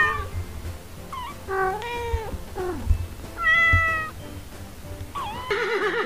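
Kittens meowing: several separate high-pitched meows, each under a second long.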